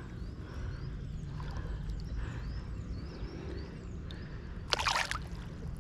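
Water sloshing around a dourado held in the pond for release, with a short splash about five seconds in as the fish kicks.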